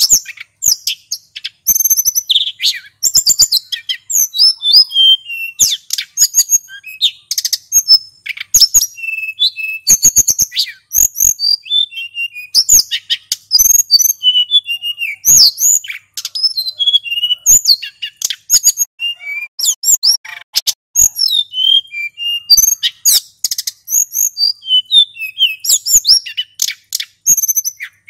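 Male sulingan gunung songbird singing a fast, continuous, varied song of high chirps, whistled notes and rapid trills, with short sharp clicks among them.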